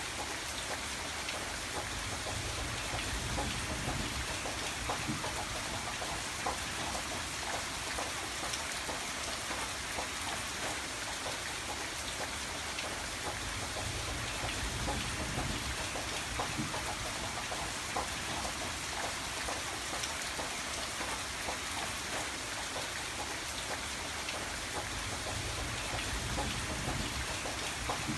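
Steady rain falling, an even hiss peppered with small drop ticks, with a low rumble swelling up a few times.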